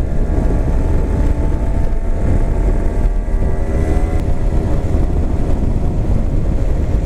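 Honda NSR250R's two-stroke V-twin running through a Dogfight expansion-chamber exhaust at a fairly steady note, under a heavy rumble of wind on the microphone.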